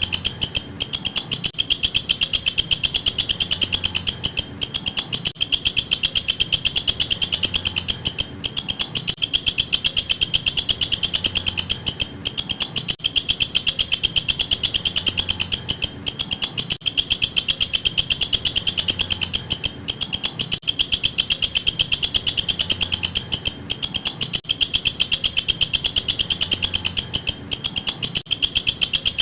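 Walang kecek insect calling: a continuous, high-pitched chirring made of rapid, even pulses, broken by short pauses every second or two.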